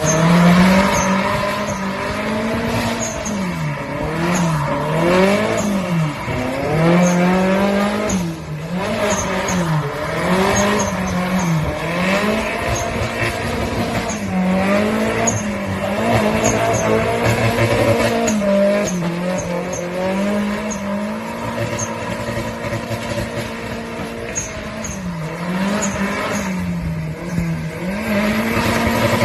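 Car engine revving up and falling back over and over as the car drifts on a wet road, with tyre noise underneath.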